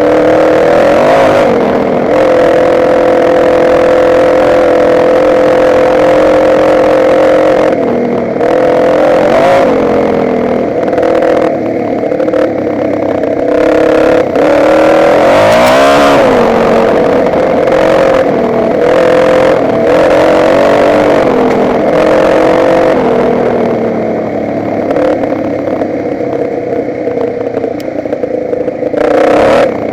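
Motocross bike engine running under load, its pitch dipping and climbing back several times as the throttle is shut and opened again, with the deepest drop and rise about halfway through.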